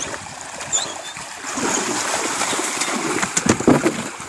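Water splashing and sloshing, getting louder about a second and a half in, with two short high chirps near the start.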